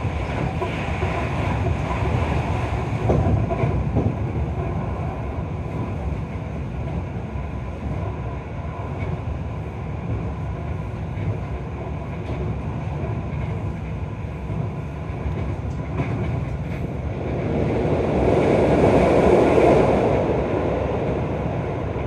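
Keio 5000 series electric train running, heard from inside the passenger car: a steady running noise with a few faint clicks, swelling louder for a few seconds near the end.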